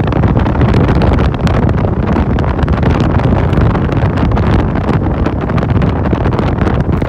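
Wind buffeting the microphone on a moving motorcycle taxi, loud and steady, with the motorcycle's running and road noise beneath it.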